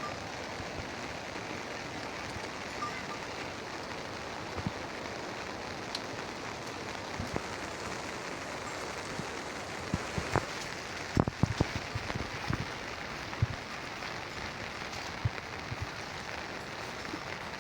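Steady rain falling, with scattered louder drops landing close by and a short flurry of them a little past the middle.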